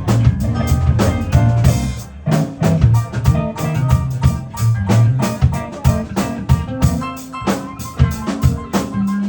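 Keyboard music with a steady drum beat and a moving bass line under held chords and melody notes.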